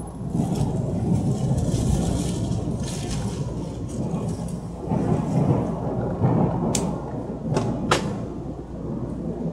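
Cabin running sound of a Taiwan Railways Puyuma Express tilting electric multiple unit (TEMU2000) under way: a steady low rumble of wheels and traction equipment with an airy hiss. A few sharp clicks come near the end.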